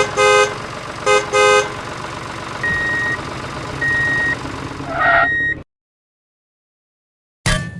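A horn honks twice in quick short-long pairs over a steady engine hum. Three evenly spaced single-tone beeps follow, then the sound cuts off suddenly.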